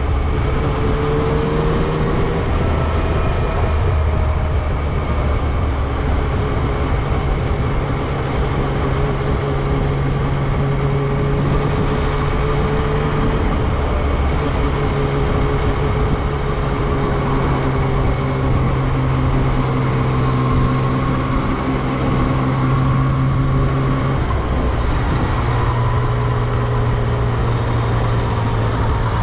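Yamaha MT-09 SP's inline three-cylinder engine running at low, fairly steady revs under way, its pitch shifting a few times and sitting lower near the end, over steady road noise.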